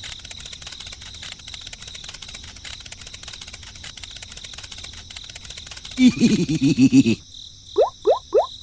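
Crickets chirring steadily with a thin high ringing tone. About six seconds in, a loud, rapid, warbling pitched call lasts about a second. Near the end, short rising chirps repeat about three times a second.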